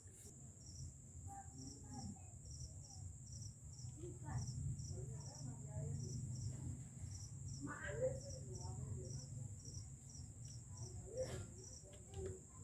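Crickets chirping: a steady high trill with regular chirps about three a second, over a low rumble.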